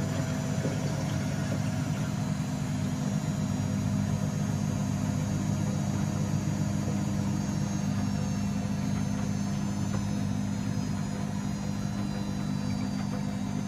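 Washing machine running under its own power: a steady motor hum with a constant drone, easing off slightly near the end.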